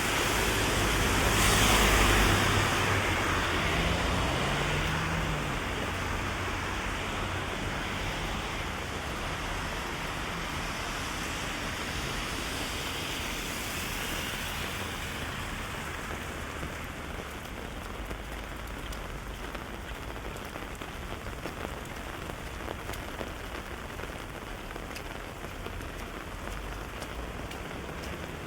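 Heavy rain falling steadily on the street and on an umbrella overhead, an even hiss dotted with fine drop ticks. It swells about two seconds in, then eases slightly.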